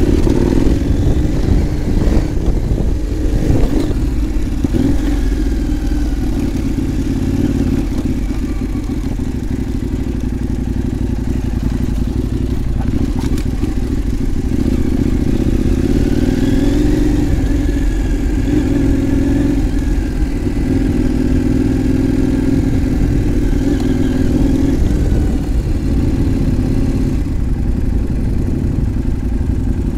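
KTM 790 Adventure R's parallel-twin engine running steadily while riding, with wind noise on the microphone; the engine note swells a few times in the second half.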